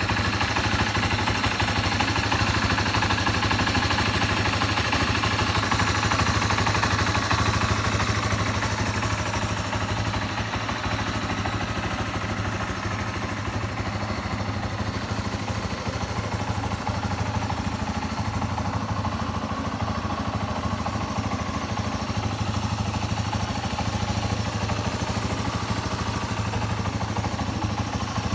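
Yamaha Serow 225's single-cylinder air-cooled four-stroke engine, fitted with a big-bore Keihin PWK28 carburettor, idling steadily, a little quieter after about ten seconds. The seller presents it as a quiet engine with no abnormal noises.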